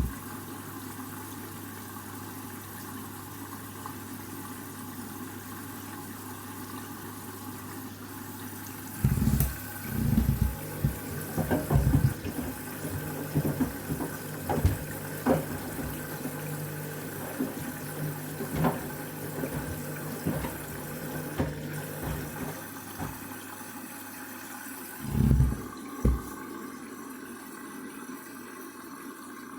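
Candy front-loading washing machine on its first rinse: water runs in steadily as it fills. From about nine seconds in, the drum motor turns and a series of irregular heavy thumps comes from the shoes tumbling in the drum, dying away near the end.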